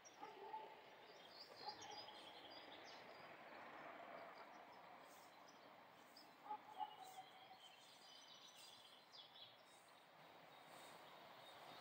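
Near silence outdoors with faint birdsong: a few scattered high chirps and short calls.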